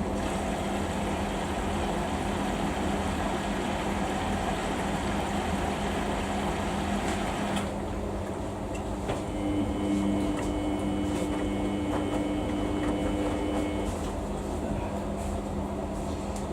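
Samsung washing machine running a Daily 40 wash cycle: a steady motor hum with broad drum and water noise. About eight seconds in the upper noise drops away, and for about five seconds a steady whine of several tones sounds over the hum.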